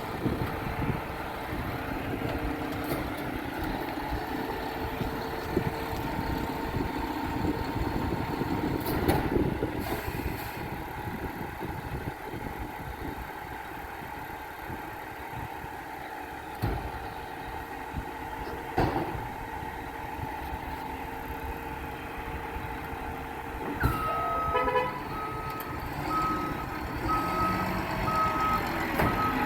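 Garbage truck engine running with a steady hum and a few knocks. Near the end its reverse alarm starts beeping at an even pace.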